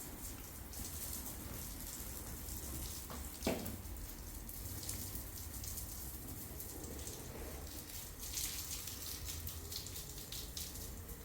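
Water running or splashing, with one sharp knock about three and a half seconds in.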